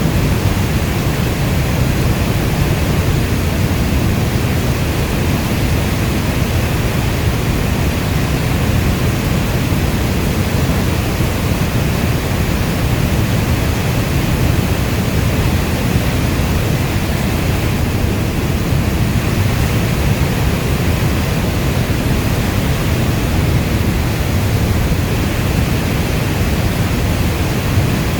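Steady heavy rainfall, a dense, unbroken wash of noise weighted toward a deep low rumble, with no separate drops or thunderclaps standing out.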